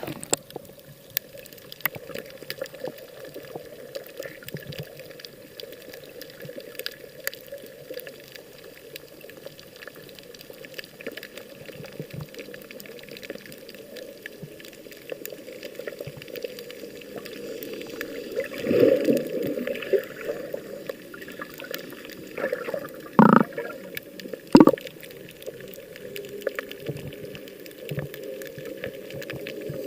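Water sloshing and lapping, with scattered small clicks, a louder surge about two-thirds of the way through, and two short knocks soon after.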